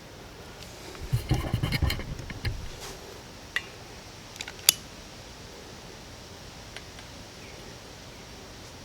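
Handling noises: about two seconds of knocking and rattling with low thuds, then a few sharp clicks, over a steady faint hiss.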